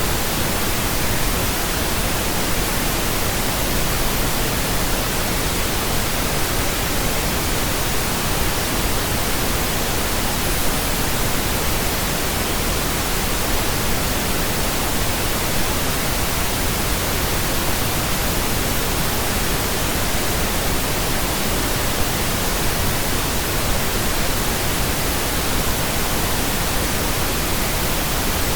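Steady pink noise: an even, unchanging hiss spread across the whole range, with no other sound.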